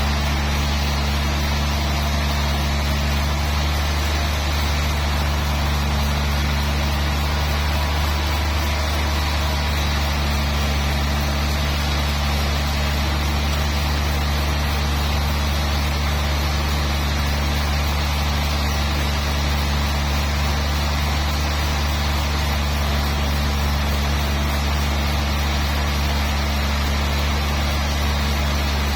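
Sawmill machinery running steadily: a loud, even, low engine drone that holds one pitch throughout, with no sign of the saw changing load.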